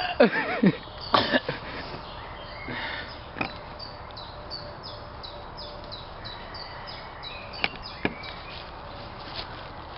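A small songbird singing a long run of short, high, quickly repeated descending chirps. Near the start a couple of loud vocal sounds glide sharply downward in pitch, and a few sharp clicks come about three and a half and eight seconds in.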